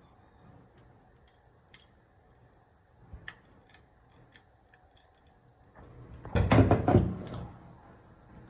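Workshop handling sounds: light scattered clicks and taps, then about a second of loud, rapid rasping strokes near the end, like cutting or scraping with a hand tool.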